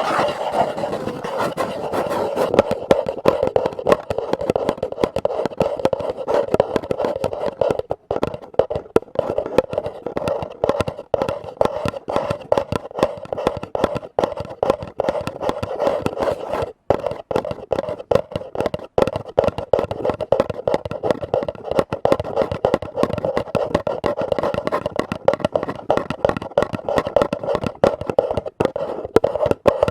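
Rapid, continuous tapping on lids, many taps a second, with a steady ringing note underneath.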